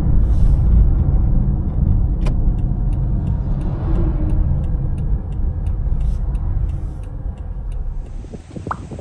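Low rumble of a road vehicle, loud at first and slowly fading away over several seconds.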